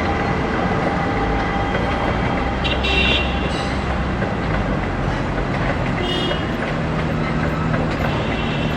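Passenger train of 25G coaches behind an HXD3D electric locomotive rolling past as it pulls out, a steady rumble of wheels on track. Brief high squeaks come about three and six seconds in.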